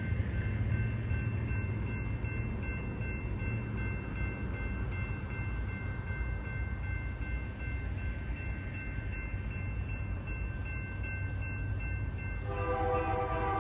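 BNSF freight train rumbling past with a steady high-pitched ringing over it; about a second before the end the locomotive's air horn starts sounding a chord.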